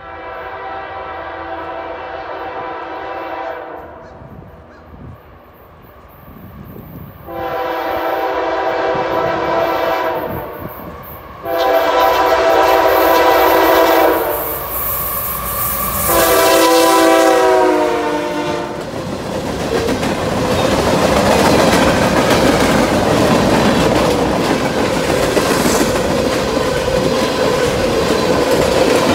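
CSX freight train's lead locomotive, a GE ES44AC-H, sounding its horn in four long blasts as it approaches, the last one dropping in pitch as the locomotives pass. Then tank cars roll by close with a steady rumble and clickety-clack of the wheels on the rails.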